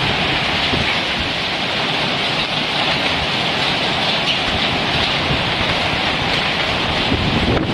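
Hailstorm: hail and heavy rain pelting down in a loud, steady, dense hiss with many small rattling hits.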